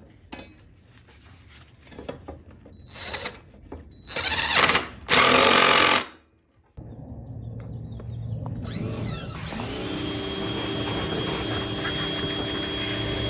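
A few light clicks of handling, then about two seconds of loud rushing noise. After a short break an electric power tool's motor spins up, its whine rising in pitch, and settles to a steady run while the mower blade is cleaned and polished.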